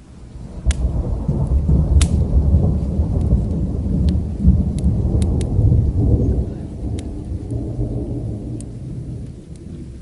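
A long roll of thunder: a deep rumble that swells up about half a second in, stays strong for several seconds and fades away near the end. Scattered sharp pops of a crackling fire and the hiss of rain sit over it.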